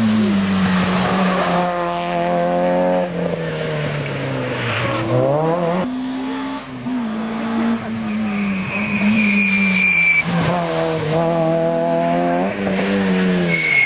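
Rally car engine at high revs, its pitch falling and then climbing sharply again several times as it lifts off and accelerates. Tyres squeal for over a second around two-thirds of the way in, and briefly again near the end.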